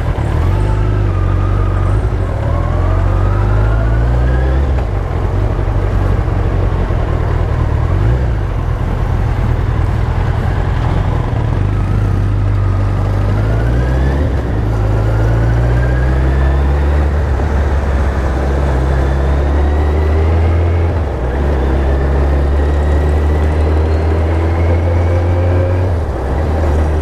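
Suzuki Hayabusa's inline-four engine through a Coyote RS Trioval exhaust, running under way. Its pitch climbs and drops back several times as it accelerates through the gears.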